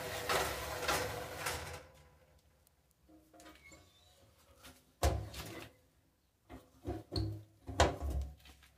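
Greased metal baking trays of biscuits being put into an oven and the oven door handled: a stretch of scraping at the start, then several separate knocks in the second half.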